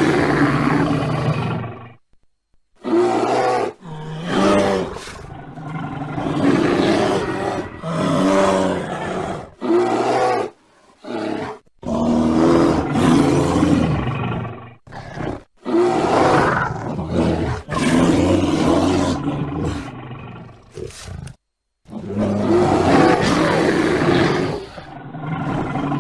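Bear growling and roaring: a series of loud, rough growls and roars broken by a few short silences.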